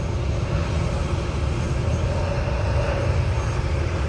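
Jet airliner engines running at takeoff power: a steady, low rumble with a faint tone above it.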